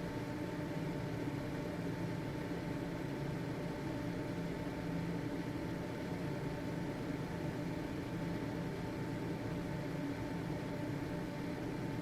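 Household ventilation fan running steadily: an even motor hum with a thin steady whine and airy hiss.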